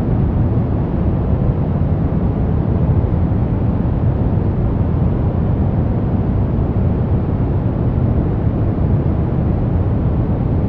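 Steady synthetic noise sold as white noise for sleep, even and unchanging, with its weight in the low end so that it sounds deep rather than hissy.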